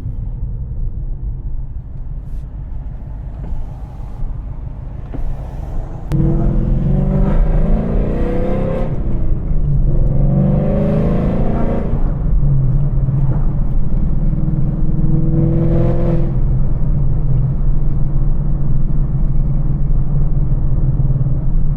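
Ford Mustang GT (S650) 5.0 V8 with Kooks longtube headers, driving. It runs quietly at first, then about six seconds in gets suddenly louder as it accelerates, its pitch climbing through two pulls, and then holds a steady, louder drone with one more brief rise.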